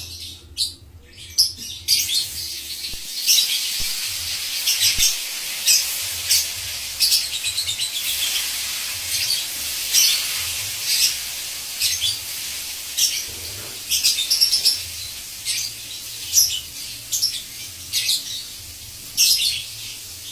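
Lovebird chattering: a fast, continuous run of high, shrill chirps that starts about two seconds in.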